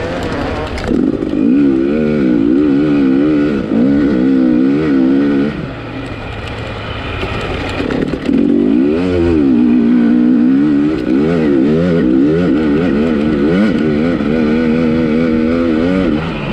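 250-class dirt bike engine under race riding, its pitch rising and falling rapidly with the throttle. It eases off for a couple of seconds about five seconds in, comes back on hard around eight seconds, and drops to a low steady note at the end.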